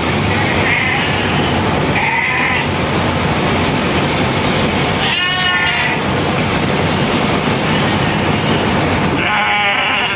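Sheep bleating twice, about five seconds in and again near the end, over the steady running noise of shearing.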